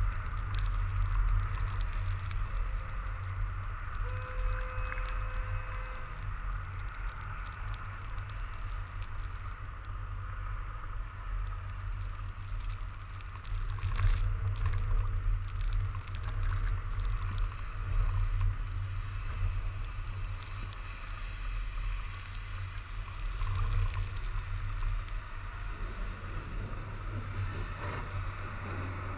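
Steady wind rumble on the microphone and road noise from a fat bike being ridden through snow, swelling louder a few times along the way.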